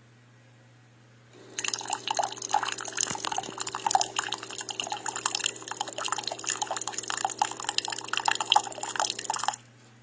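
Single-serve K-Cup pod coffee maker dispensing into the cup: a sputtering, dripping stream over a steady pump hum. It starts about a second in and cuts off suddenly near the end, one of the spurts in which the machine heats and delivers its water.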